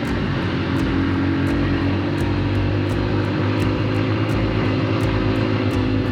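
Honda XR150's single-cylinder engine pulling steadily under load up a steep gravel climb, its pitch holding even.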